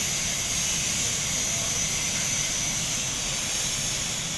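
Electric welding arc giving a steady hiss.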